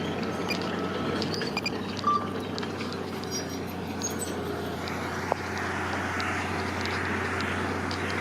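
Diesel engine of heavy construction machinery running steadily, with scattered small clicks and a short high chirp about two seconds in.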